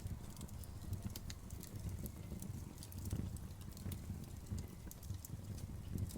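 Wood fire burning: a steady low rumble of flames with frequent irregular crackles and sharp pops from the burning wood.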